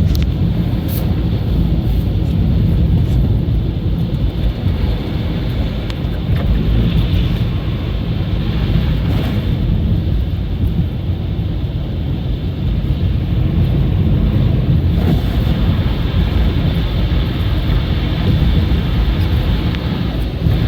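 Car driving, with a steady low rumble of road and engine noise heard from inside the cabin.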